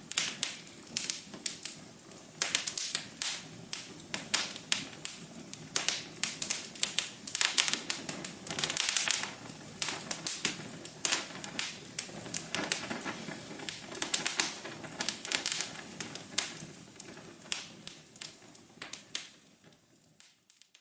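Wood fire crackling, with irregular sharp snaps and pops over a soft low hum. It fades out over the last few seconds.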